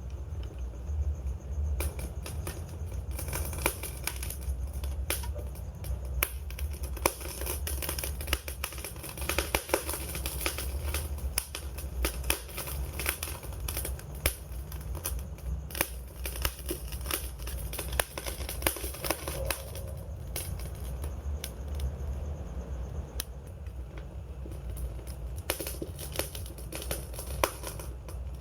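Wood fire crackling: dense, irregular pops and snaps over a steady low rumble.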